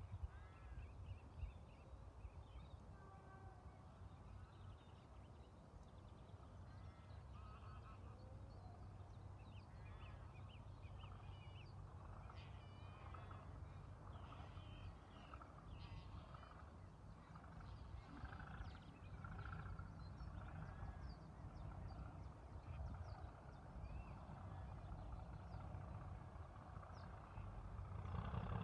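Birds calling in many short, arched calls over a low steady rumble that swells near the end.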